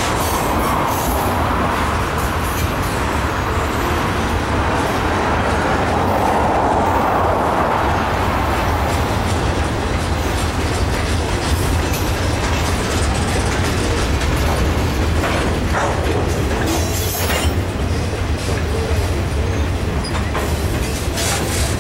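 Freight train's boxcars rolling past at speed: a steady rumble of steel wheels on the rails, with a few sharp knocks in the second half.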